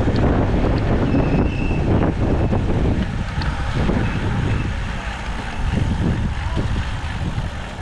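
Wind buffeting the microphone of a moving bicycle's camera, a steady low rumble that eases off in the last few seconds.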